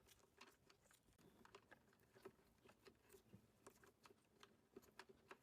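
Near silence, with faint scattered clicks and rustles of the two spliced wires being handled and fixed together.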